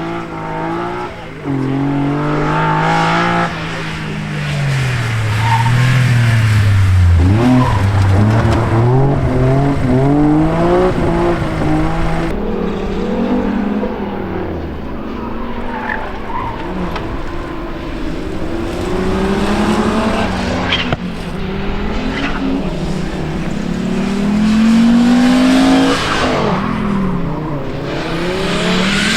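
Rally car engines revving hard through gear changes, their pitch repeatedly climbing and dropping; loudest from about five seconds in and again near the end.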